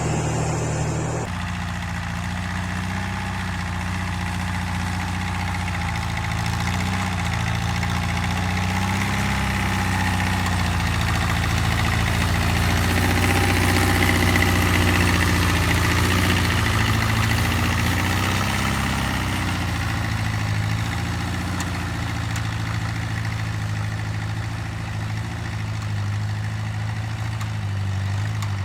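Mini tractor's small engine running steadily, as when plowing, its pitch dipping slightly now and then as it takes load.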